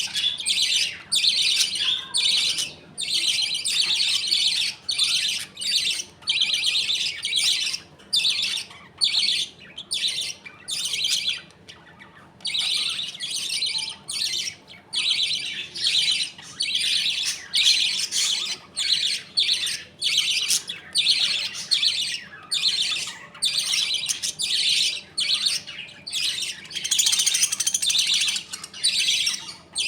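A colony of budgerigars chattering and chirping continuously, in rapid overlapping bursts of warbling calls, with a brief lull just before the middle.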